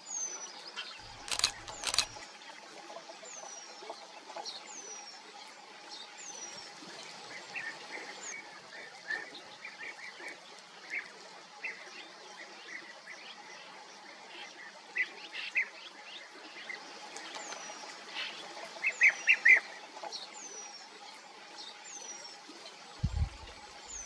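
Eurasian penduline tit calling: a thin, high whistle that slides down in pitch, repeated about ten times at irregular intervals. Bursts of short, lower chirps come twice, the second about 19 s in being the loudest bird sound. There are two sharp clicks about a second and a half in, and low thumps near the end.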